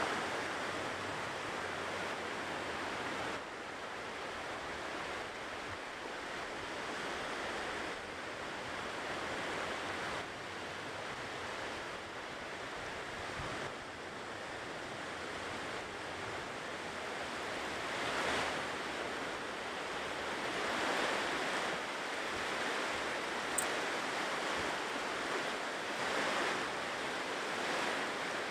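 Ocean surf washing onto a shore, a steady hiss of water with a few waves swelling and breaking in the second half.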